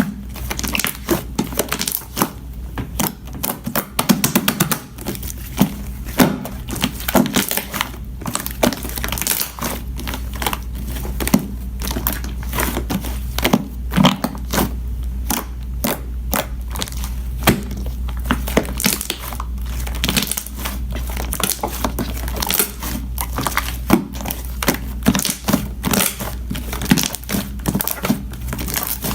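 Rapid, irregular clicks and crinkling handling noises over a steady low hum.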